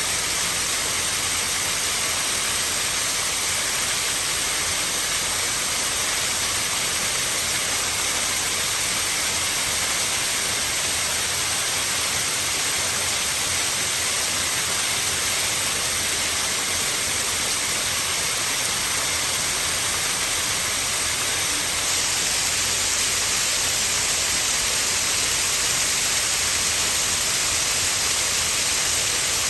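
Waterfall in a Japanese garden, water pouring steadily in a constant rushing hiss, a little louder and brighter from about two-thirds of the way through.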